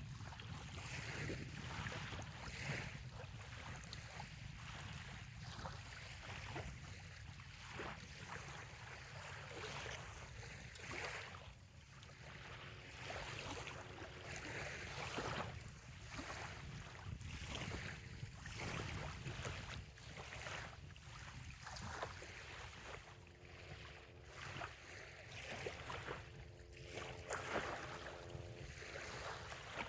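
Small bay waves lapping softly on a sandy shore in irregular washes, over a steady low rumble of wind on the microphone. A faint steady hum comes in twice, about twelve seconds in and again near the end.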